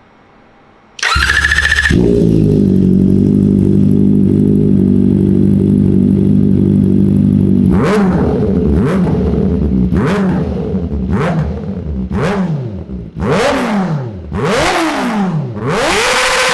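Kawasaki Ninja ZX-4RR's 399 cc inline-four cranked on its electric starter with a brief whir, catching about two seconds in and idling steadily. From about eight seconds in it is free-revved in sharp throttle blips roughly once a second, rising and falling in pitch. Near the end it is held at high revs.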